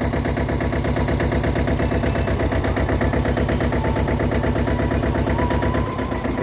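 Mini tractor's diesel engine running at idle with a steady, even chugging beat.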